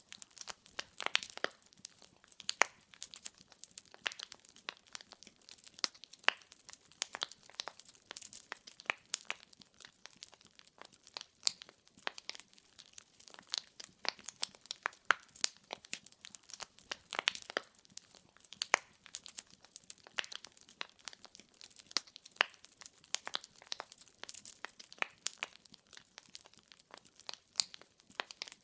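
Wood fire crackling in a fireplace: logs burning with a dense, irregular stream of snaps and pops over a faint hiss, with some louder pops here and there.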